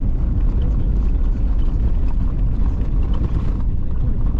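Vehicle on the move: a steady, loud low rumble of engine and road noise, with faint light rattles over it.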